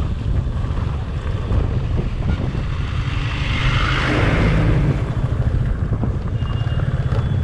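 Motorcycle engine running under way, a steady pulsing low rumble, with wind buffeting the rider's microphone. A rushing swell of noise builds and fades between about three and five seconds in.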